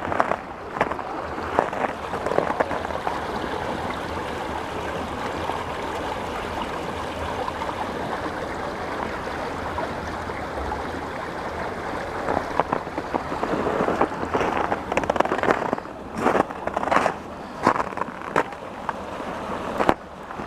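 Waterfall water rushing steadily. In the last several seconds, louder uneven bursts of noise come and go over it.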